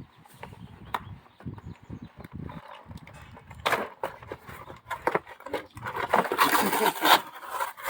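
A package being opened by hand: clicks and knocks of handling, then a louder stretch of rustling and tearing of the packaging about six seconds in.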